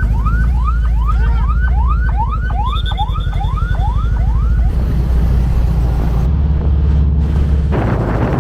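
Electronic siren yelping in quick rising sweeps, about three a second, over the steady low drone of a car engine. The yelping stops a little past halfway and the engine drone carries on.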